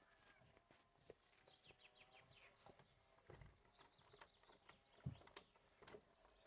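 Faint birds chirping in short falling notes, with scattered light knocks and one low thump about five seconds in.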